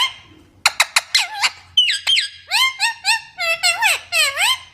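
Parrot giving a rapid string of short, high, squeaky calls, many sliding sharply up or down in pitch, about a dozen in a row.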